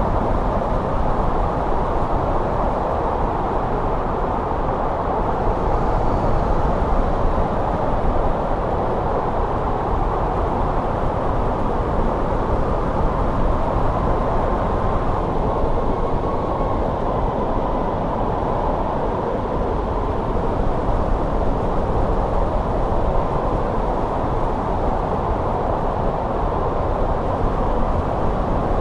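Steady snowstorm wind, an even rushing noise heaviest in the low and middle range, with no gusts or breaks.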